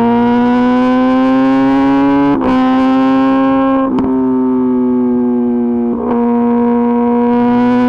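Kawasaki ZX-10RR's inline-four engine through an Arrow Pro-Race exhaust, running hard under acceleration with a steady high note that climbs slowly. It breaks off briefly three times, about two and a half, four and six seconds in, as it shifts up a gear.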